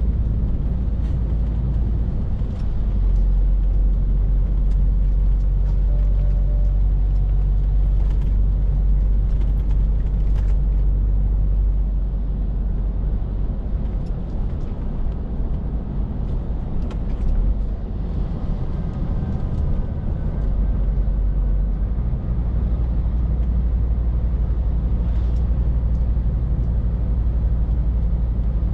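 Scania R450 lorry's six-cylinder diesel engine running under way, a steady low drone mixed with road noise that swells a few seconds in and eases off for a while past the middle.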